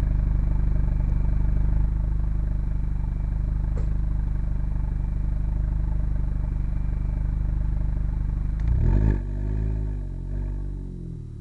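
Hartge MINI's engine idling steadily through a Hayward & Scott exhaust, then two quick revs near the end, each rising and falling in pitch, before it drops back toward idle.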